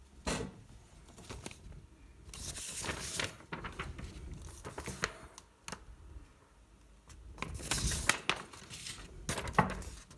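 Irregular rustling and crinkling with scattered clicks and knocks, the sound of objects being handled; the loudest knock comes near the end.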